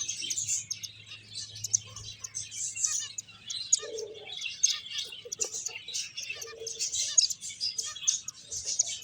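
A group of finches chirping, a dense, continuous run of short high calls, with a few lower calls mixed in around four to seven seconds in.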